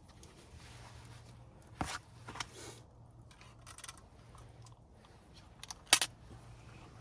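Objects being handled: a few sharp clicks and knocks, the loudest about six seconds in, over a faint low hum.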